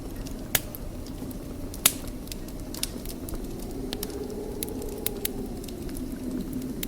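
Wood fire burning in a fireplace: a steady low rumble of flames with irregular sharp crackles and pops, the loudest about two seconds in.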